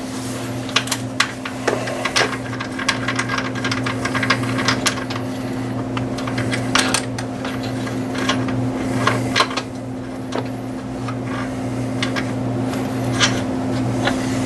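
Hand tools at work on the alternator's mounting bolts: irregular metallic clicks and clinks of a ratchet and socket, over a steady low hum.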